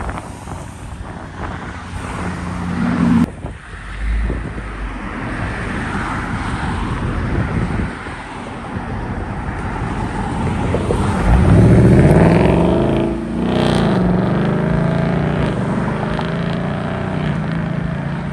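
Car engines running, and about eleven seconds in one car accelerates hard, its engine note climbing steeply to a loud peak before easing off into a steadier note.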